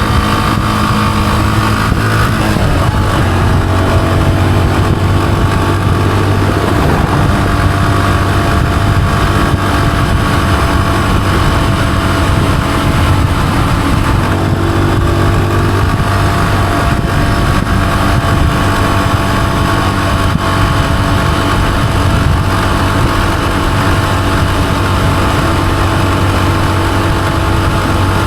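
Honda CG125's single-cylinder four-stroke engine running steadily under way, its pitch shifting a few times as the rider changes speed.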